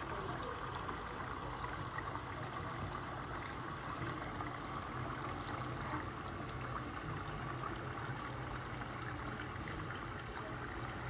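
Water running steadily into a pot or container, a continuous pouring stream.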